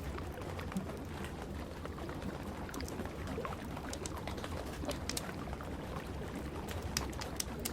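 Wood fire crackling, with irregular sharp pops a few times a second, over a steady hiss of rain and a low rumble.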